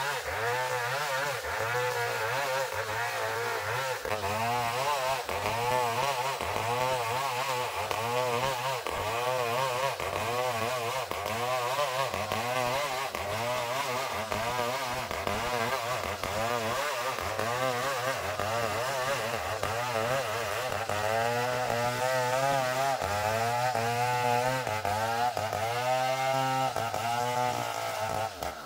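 Engine-driven sawmill saw cutting through a long ironwood (ulin) log, its motor pitch wavering up and down about once a second as it works under load.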